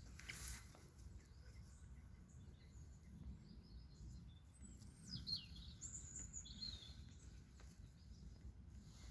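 Faint low background rumble with a few short, high bird chirps about five to seven seconds in, one of them a quick falling whistle.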